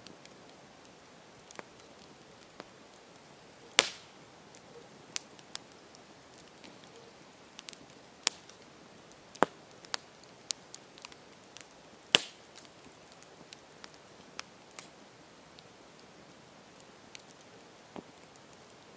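Campfire crackling: scattered sharp pops and snaps at irregular intervals over a faint steady hiss, with two louder pops about four seconds in and again about twelve seconds in.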